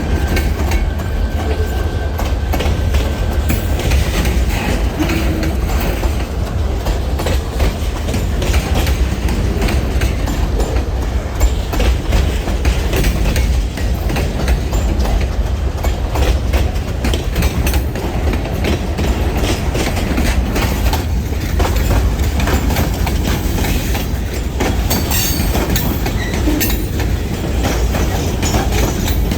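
Freight train cars rolling past, steel wheels clattering over the rail joints in a steady, dense run of clicks over a heavy rumble. A faint wheel squeal is heard in the first few seconds.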